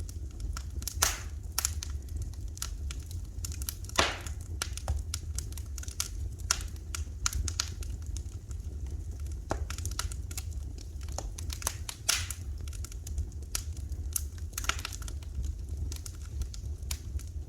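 Wood fire crackling in a fireplace: irregular sharp pops and snaps, a few louder ones about a second in, around four seconds in and around twelve seconds in, over a steady low rumble.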